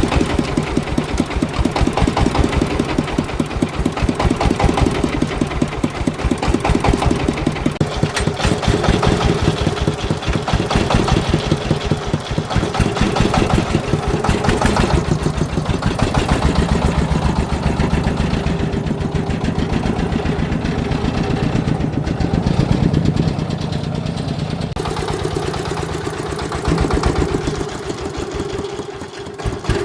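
Farm vehicle's engine running at low speed with a fast, even pulsing beat. Its tone shifts about three-quarters of the way through and dips briefly near the end.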